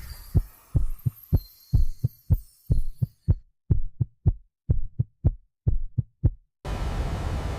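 A run of low, dull thuds, many in close pairs like a heartbeat, about two a second. About six and a half seconds in they cut off abruptly and a steady rushing rumble takes over.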